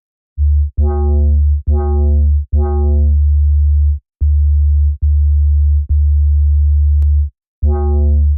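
Synth dub bass from Arturia Pigments played as a phrase of deep notes: a sine-wave bass with phase modulation and cross-modulation from a second engine. Several notes open with a bright, metallic, bell-like edge that fades within about half a second, while the longer notes in the middle stay plain and low.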